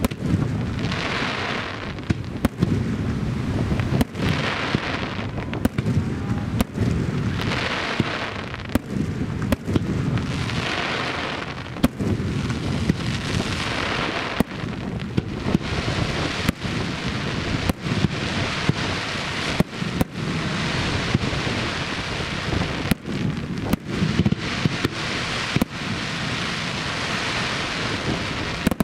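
Starmine aerial fireworks going off in quick succession, a sharp bang every second or so, over a rushing hiss that swells and fades. Strong wind buffets the microphone with a low rumble throughout.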